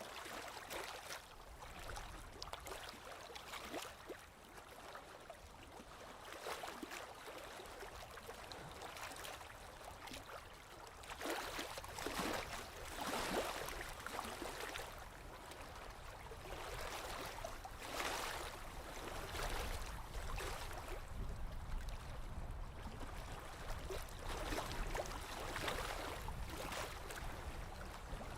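Small waves lapping on a lake shore: soft, irregular splashes and swells of water, a little louder around the middle, over a faint low rumble.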